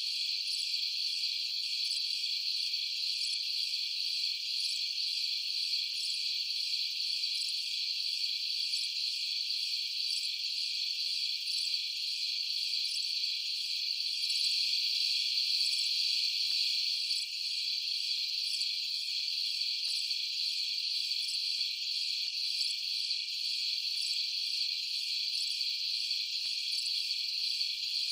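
A steady chorus of crickets at night, a dense high-pitched trilling with a faint regular pulse, swelling slightly about halfway through.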